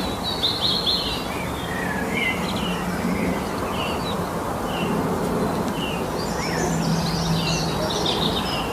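Several songbirds singing in short high chirps and trills over a steady background hiss, the calls crowding together about six and a half seconds in.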